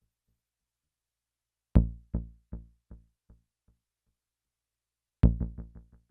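Short bass notes from a Behringer Neutron synthesizer played through an MXR Carbon Copy analog delay pedal, each note followed by a string of fading echoes. The first note comes about two seconds in and repeats roughly two and a half times a second. The second note comes near the end and repeats about seven times a second, a shorter delay time.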